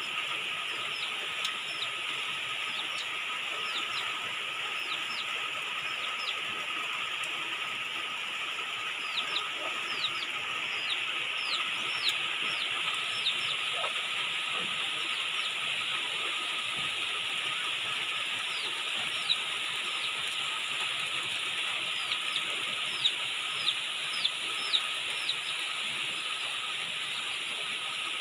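Steady rain falling on dense tropical foliage, a constant hiss. Over it, a bird gives runs of short, high chirps that drop in pitch, several times.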